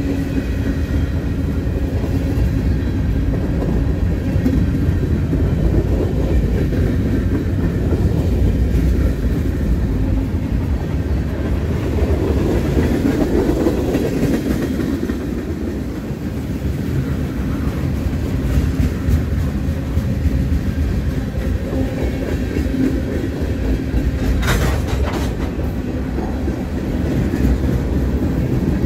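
Freight cars of a mixed freight train rolling past close by: a steady low rumble with wheels clicking over the rail joints. A brief sharp metallic noise near the end.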